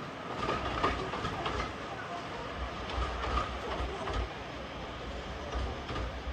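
Railway carriage running along the track: a steady rumble with irregular clicks and knocks from the wheels over the rails.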